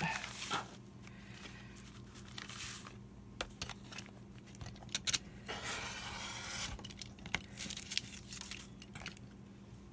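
Paper sheets being handled: rustling and sliding with scattered light taps, and two longer stretches of paper tearing a little past halfway.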